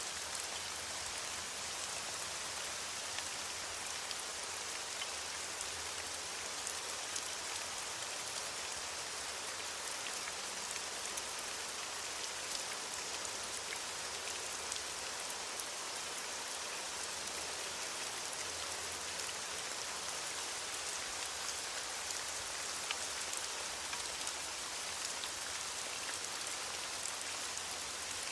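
Steady rain falling on leaves, an even hiss with scattered individual drop ticks.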